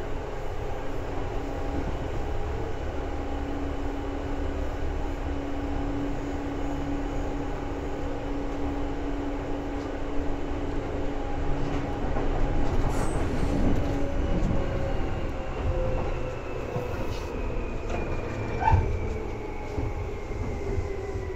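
Seibu 2000 series electric train running, heard from inside the car: a steady rumble with a whine from the motors and gears. From about two-thirds through, the whine falls in pitch as the train slows, and a wheel knock comes near the end.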